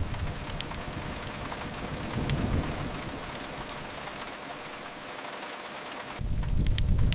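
Steady rain hissing down. About six seconds in, a low rumble comes back with sharp crackles.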